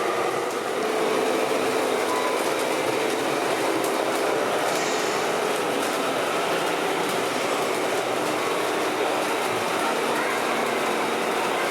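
Radio-controlled model trucks and construction machines running: a steady mechanical noise with a few faint steady whining tones.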